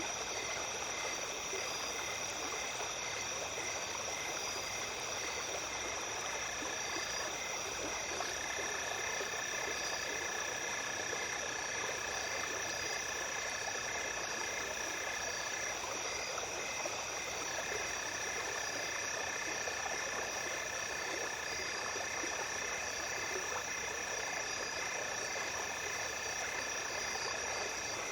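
A small stream flowing steadily under a chorus of night insects: several steady high trills, rows of pulsed chirps, and a lower continuous trill that comes in after several seconds and breaks off twice.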